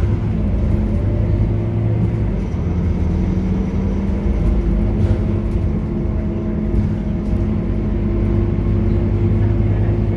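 Scania K230UB bus's diesel engine and ZF automatic gearbox running under way, a steady drone whose engine note shifts slightly about two seconds in.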